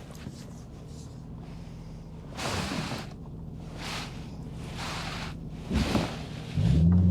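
Jaguar XK8's V8 cruising, heard from inside the cabin as a steady low drone under tyre and road noise, with vehicles whooshing past a few times. Near the end the engine note jumps suddenly louder and steadier.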